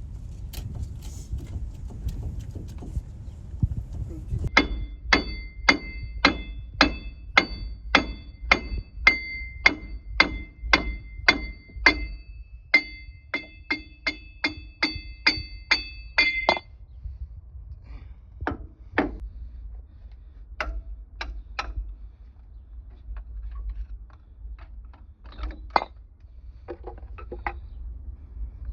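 Hammer blows on metal, each ringing briefly, struck in a steady run of about two a second for some twelve seconds, then a few scattered blows.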